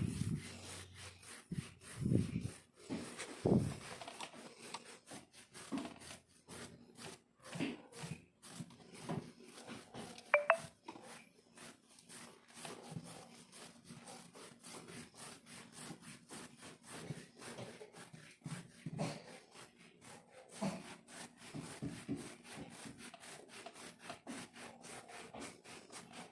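Repeated close-up scratching and rasping strokes on dry, flaky skin of a leg, scraping off flakes. About ten seconds in there is a brief high squeak.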